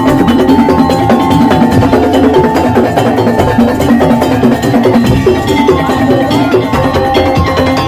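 Madurese tong-tong (ul daul) percussion ensemble playing a fast, dense rhythm of drums and struck percussion, with tuned instruments carrying a repeating melody.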